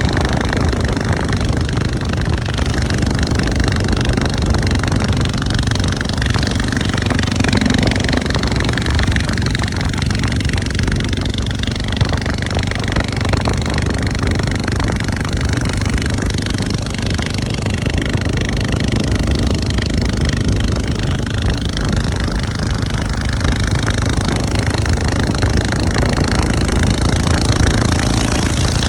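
Motorcycle engine running steadily on a ride, under a loud, even rush of noise.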